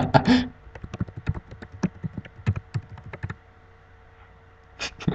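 Typing on a computer keyboard: a quick, irregular run of key clicks lasting about three seconds, which then stops.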